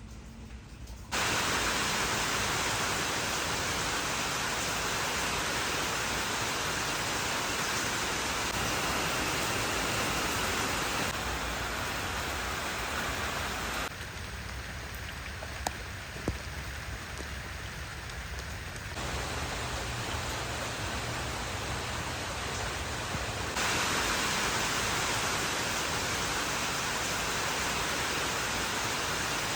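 Heavy rain falling, a dense steady hiss. Its level jumps suddenly about a second in and shifts abruptly several more times, like separate rain recordings spliced together, with two faint sharp ticks around the middle.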